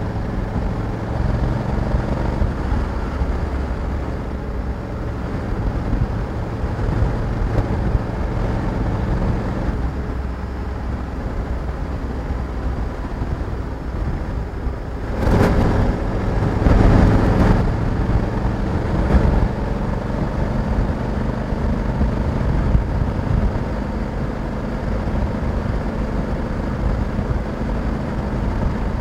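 Honda Africa Twin 1100's parallel-twin engine running at a steady road speed under wind and road noise, with a louder rush of noise about fifteen to eighteen seconds in.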